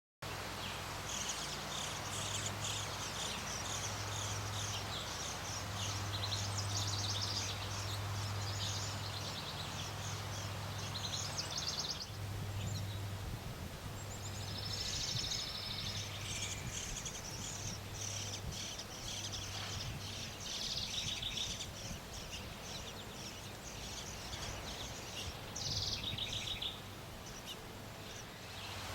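Outdoor ambience: many high, rapid chirping trills that come and go, over a low hum that pulses on and off.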